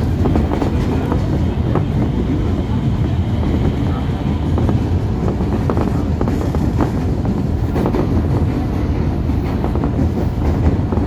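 A JR 203 series electric commuter train running at speed, heard from inside the car. A steady low rumble, with irregular clicks from the wheels on the rails.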